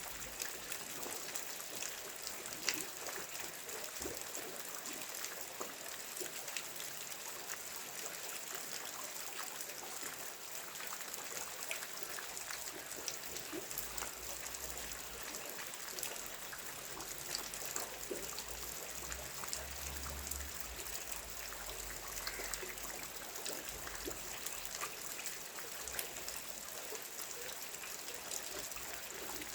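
Steady rain falling, an even hiss dotted with many small ticks of separate drops.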